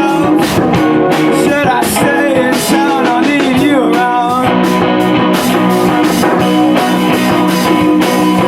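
Live rock band playing, with electric guitar and drum kit cymbals keeping a steady beat.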